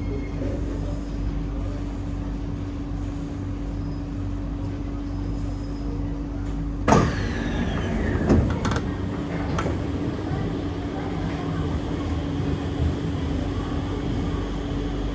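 Stationary metro train standing at a platform, its on-board equipment giving a steady low hum. About 7 s in there is a sudden knock with a short falling whine, then a few smaller knocks.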